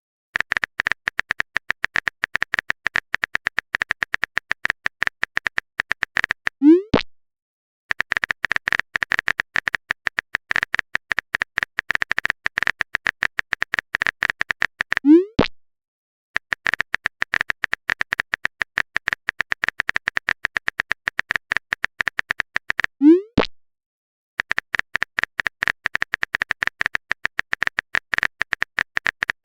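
Phone-keyboard typing sound effect: rapid clicks in runs of several seconds, each run ending with a short rising 'bloop' message-sent tone, three times.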